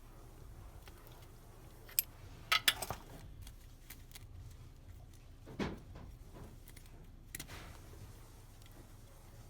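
Hand tools and metal engine parts being handled: a few sharp metallic clicks and clinks, a cluster of them about a third of the way in, then a duller knock a little past halfway and one more click.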